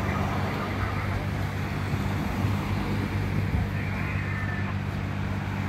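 A motor vehicle engine idling with a steady low hum, over the noise of road traffic.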